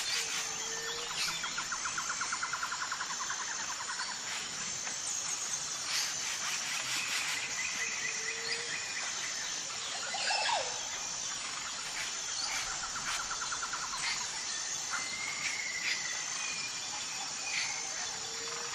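Wetland birds calling over a steady high-pitched insect drone, with scattered chirps. A fast rattling trill sounds twice, and a short low whistle three times.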